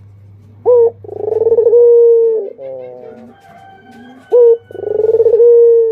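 Barbary dove (burung puter) cooing: twice a short sharp note followed by a long rolling coo, with softer coos between the two phrases.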